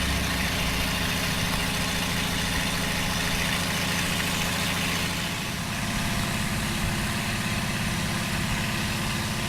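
Engine running steadily at low speed, a low hum under a broad hiss, its note shifting about five and a half seconds in.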